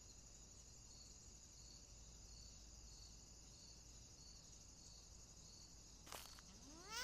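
Faint insect chirping: a soft chirp repeating about every two-thirds of a second over a steady high hiss. A short click comes near the end, and a rising whoosh begins just as it ends.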